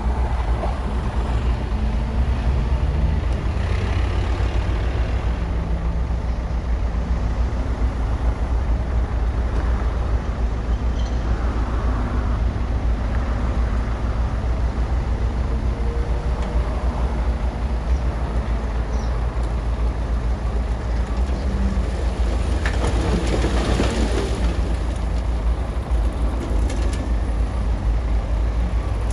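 Bulldozer's diesel engine running steadily with a low rumble, growing louder and rougher for a second or two about six seconds before the end.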